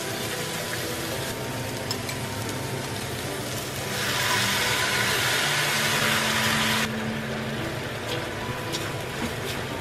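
Onions and mushrooms sizzling in a hot pan while being stirred with a spatula, with a few light knocks. About four seconds in, sauce goes into the pan and the sizzle turns to a louder hiss for about three seconds, then drops back.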